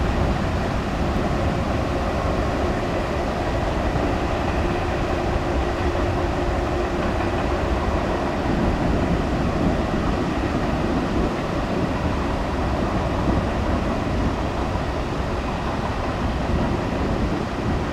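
Freight train of boxcars, covered hoppers and tank cars rolling past at a steady pace: a continuous low rumble of steel wheels on rail.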